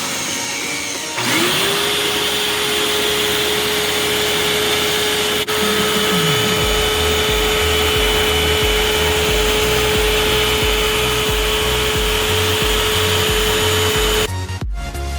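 Eureka AirSpeed upright vacuum cleaner running: its motor whine rises as it spins up about a second in, holds steady with a rushing airflow, and cuts off near the end. Background music with a low thumping beat comes in about halfway.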